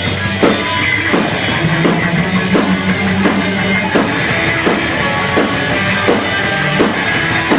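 Live rock band playing an instrumental passage: drum kit keeping a steady beat of about one and a half hits a second, with guitar and bass under it.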